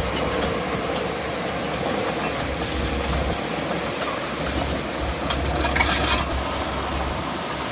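Heavy diesel earthmoving machinery running: a steady low engine rumble with mechanical noise, and a brief hiss about six seconds in.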